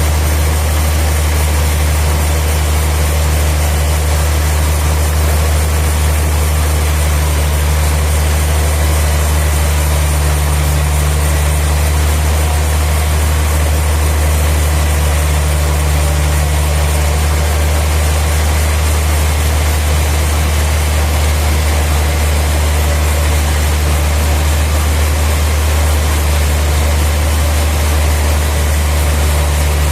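Sawmill machinery running steadily: a loud, even, low engine drone that holds the same pitch and level throughout, with no sign of a blade biting into wood.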